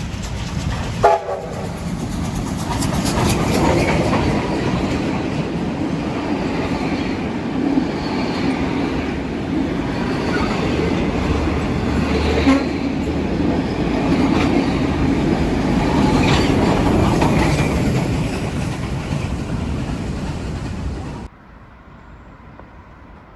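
A train passing close by, with steady wheel and rail noise, and a short horn toot about a second in. The sound cuts off abruptly near the end.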